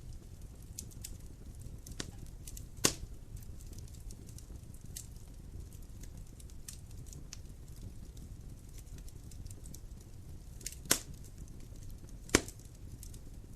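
Dry firewood burning in a fireplace and crackling: a steady low rumble of flames under scattered small ticks. A few sharp, loud pops stand out, one about three seconds in and two near the end.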